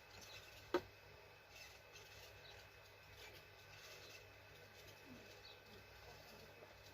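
One sharp click about a second in, from hand work on a cylinder head during valve reassembly, over faint scattered small ticks.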